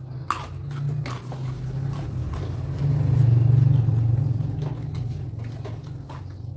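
Close-miked chewing of a mouthful of raw vegetables, with crisp crunches near the start and a low chewing rumble that swells loudest around the middle.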